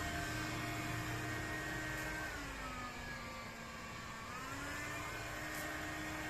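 A motor running steadily; its pitch drops about two seconds in and rises back to the same pitch about two seconds later.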